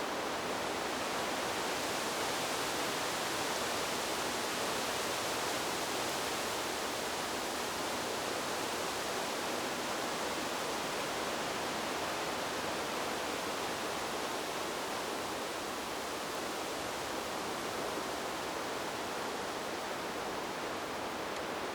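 Wind blowing through trees: a steady, even rushing hiss with no separate gusts or other sounds.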